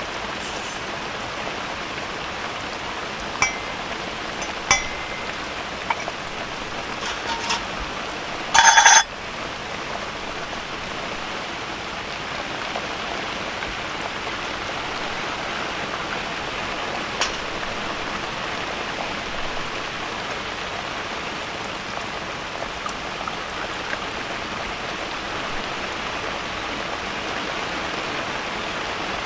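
Steady heavy typhoon rain pouring down, with a few sharp drips or taps. One brief louder burst comes about nine seconds in.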